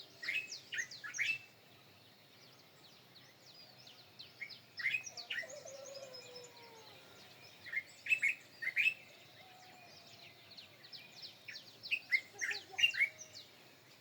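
Songbird calling in four quick bursts of sharp, falling chirps, over faint outdoor background.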